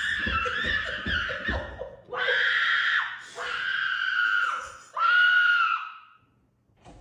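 A person screaming at full voice: four long, high-pitched screams, with dull thumps under the first one.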